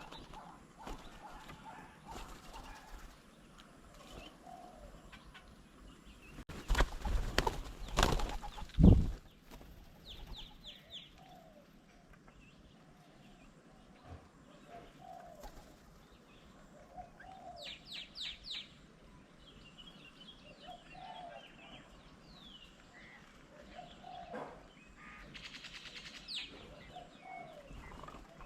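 Birds at a feeding table: a flurry of loud wing flaps about seven to nine seconds in, with scattered short chirps and repeated low calls the rest of the time.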